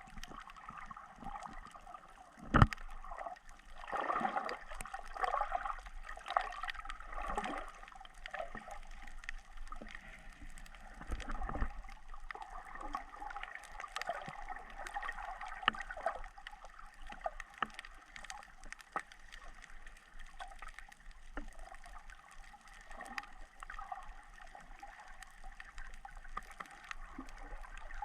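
Water gurgling and trickling steadily, with many small scattered clicks. There is a sharp knock about two and a half seconds in and a low rumbling swell near the middle.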